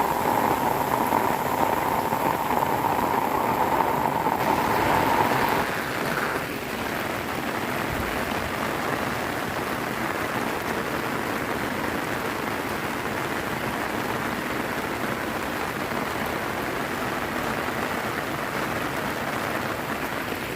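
Heavy rain falling, a steady hiss that drops a little in level about six seconds in.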